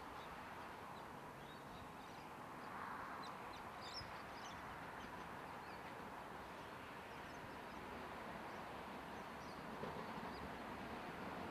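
Faint outdoor rail-yard ambience: a distant electric train approaching, heard as a low steady rumble that grows slightly louder, with scattered small bird chirps over it.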